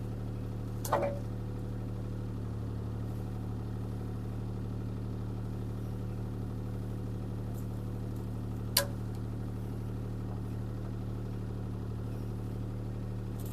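CAT 303C CR mini excavator's diesel engine running at a steady, even speed, with a single sharp crack or knock about nine seconds in.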